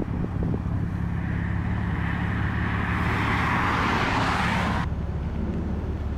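A steady low engine rumble, with a hiss that builds over a few seconds and cuts off abruptly about five seconds in.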